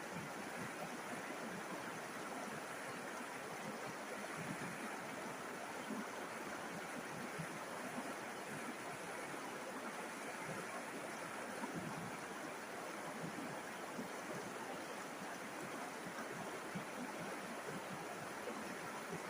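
River water flowing and babbling over stones, a steady rushing with small splashing flickers.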